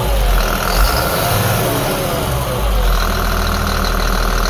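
Cat C7 inline-six turbo diesel engine running, its pitch falling away in the first two seconds as the revs drop, then settling into a steady run with a constant high whine.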